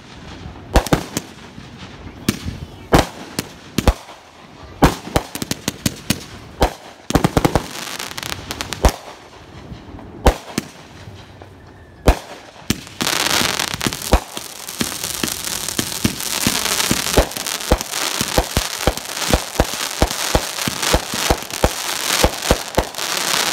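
Consumer firework cakes firing: a string of separate sharp bangs, then about halfway through a dense, continuous crackling barrage thick with rapid pops.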